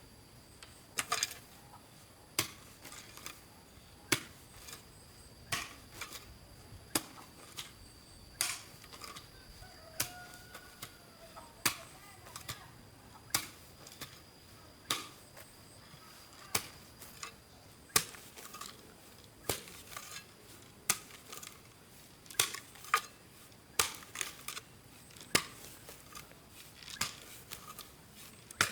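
Repeated sharp knocks or strikes, about one every second and a half, some coming as quick double blows, over a faint steady high-pitched tone.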